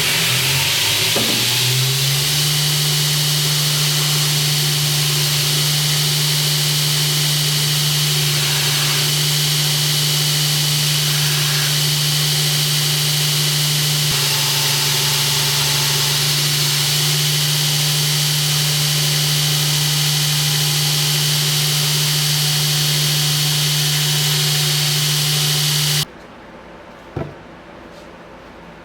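A power tool's motor spins up over the first couple of seconds and then runs steadily with a strong hum and a hiss, stopping abruptly near the end, followed by a single click.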